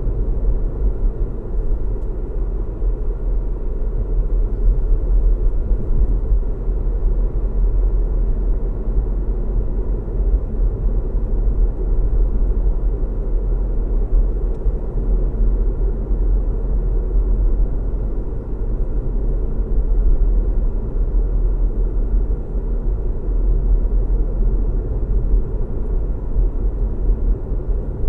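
Car driving steadily on a road: a continuous low rumble of road and engine noise.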